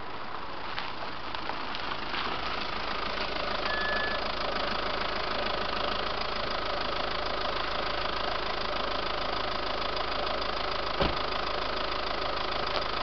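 VW Passat 3C 2.0 TDI four-cylinder diesel idling steadily through a custom exhaust, a little louder from about two seconds in. A single sharp click comes near the end.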